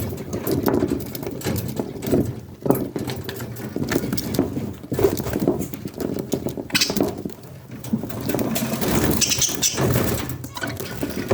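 Budgerigar chicks calling in the nest, a low, busy chatter mixed with scattered clicks and scuffles.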